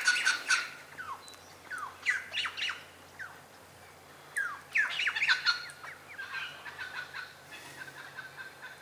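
Birds calling in bursts of quick, sharp downward-sliding chirps: a cluster at the start, another about two seconds in and a third about four and a half seconds in, then a softer, more even run of chirps near the end.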